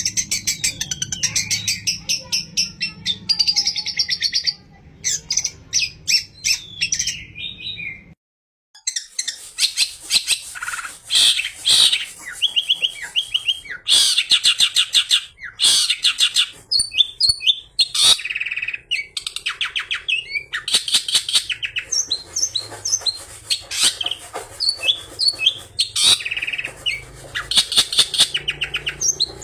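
Long-tailed shrike (cendet) singing a fast, varied song of chirps, trills and harsh notes, with mimicked calls of other birds worked in. The song breaks off for a moment about 8 s in, then goes on.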